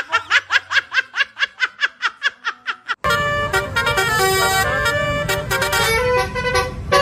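A fast string of short rising horn toots, about eight a second. About three seconds in it cuts off abruptly into a melody of held notes.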